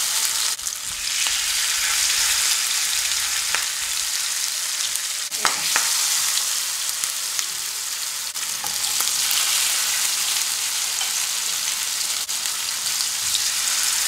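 Masala-coated lamb chops shallow-frying in hot oil in a frying pan: a steady, dense sizzle, with an occasional faint click.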